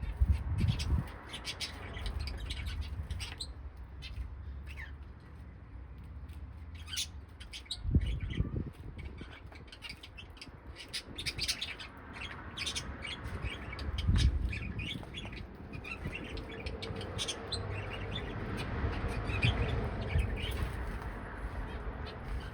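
A flock of caged pet birds chirping and tweeting in many short, overlapping calls. There is a low rumble throughout, with a few dull thumps: at the start, about eight seconds in and about fourteen seconds in.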